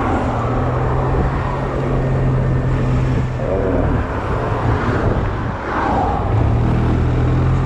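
Honda Silver Wing maxi-scooter engine running at low, steady speed under heavy wind noise on the onboard camera. The engine note drops away about halfway through and picks up again a little later.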